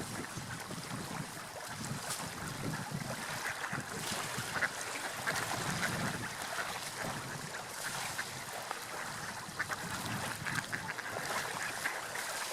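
Seagulls calling repeatedly over the steady wash of sea waves.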